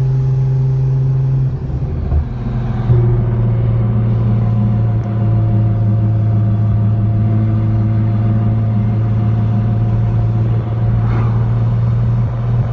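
Nissan GT-R R35's twin-turbo V6 through a 4-inch Y-pipe exhaust with no mufflers, running steadily under way with a low, even drone. The note dips briefly about a second and a half in, then holds steady again.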